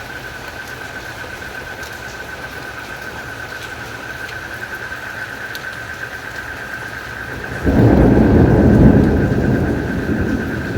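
Steady trilling of crickets over a light hiss of rain, then about three-quarters of the way in a loud rumble of thunder breaks in suddenly and slowly dies away.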